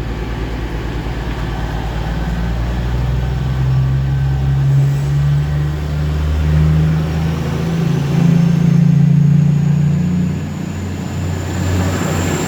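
Class 222 Meridian diesel multiple unit's underfloor diesel engines throttling up as the train pulls away: a heavy engine drone whose pitch climbs in steps, with a faint rising whine near the end.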